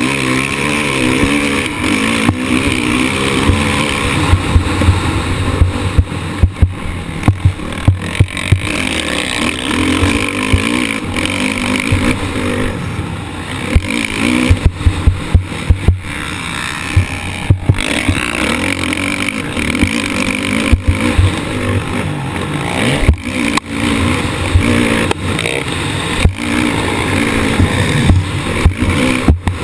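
Motocross bike engine racing, revving up and down in pitch as the throttle opens and closes, with frequent sharp thumps and knocks through the camera mount.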